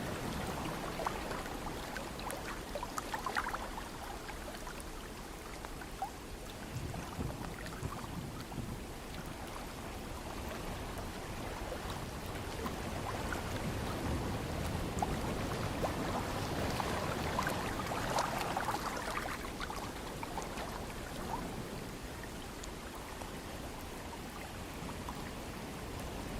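Ocean surf washing in and drawing back: a continuous rush of water noise that slowly swells and eases, loudest about two-thirds of the way through.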